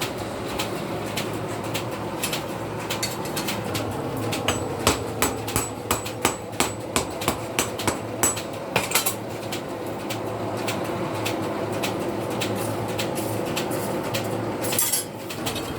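Blacksmith's hammer striking steel on an anvil while forging a sickle blade. It starts with lighter, scattered taps, then a run of loud, even blows at about three a second in the middle, with a steady hum underneath.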